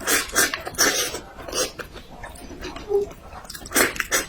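Close-miked eating: loud, wet chewing and lip-smacking in irregular bursts, with a quieter stretch in the middle.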